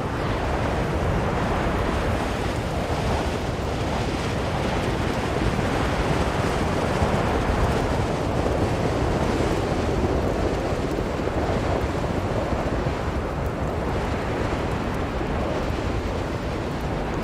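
Strong blizzard wind blowing steadily as a dense rushing noise that swells and eases slowly.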